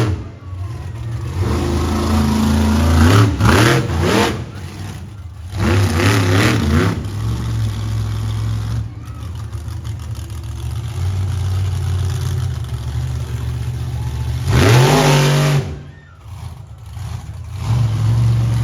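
Monster truck engine running under a steady low drone and revving hard in repeated surges, the sharpest a quick rising rev about three-quarters of the way through.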